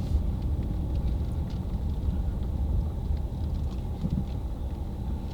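Steady low rumble of a car's engine and road noise, heard from inside the cabin while the car creeps along.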